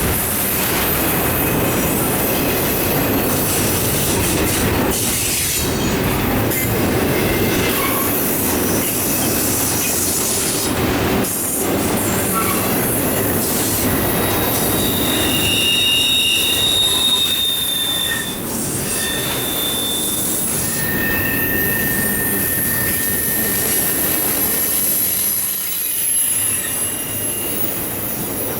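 Autorack and intermodal freight cars of a Norfolk Southern train rolling past, a steady rumble of steel wheels on rail. Thin, high-pitched wheel squeals ring out through the middle part.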